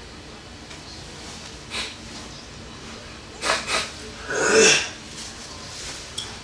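A person sneezing: two sharp intakes followed by one loud burst with a falling voiced part, about four and a half seconds in.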